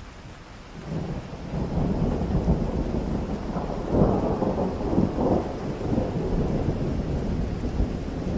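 Steady rain with a long, rolling rumble of thunder that builds about a second in and swells to its loudest around the middle.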